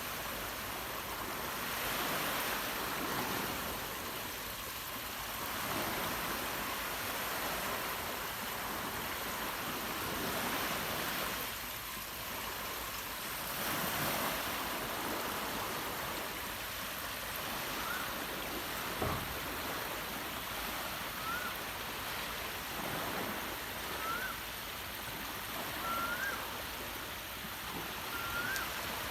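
Surf washing in and out on a beach, swelling and easing every few seconds. In the last ten seconds a bird repeats a short rising whistled note about every two to three seconds.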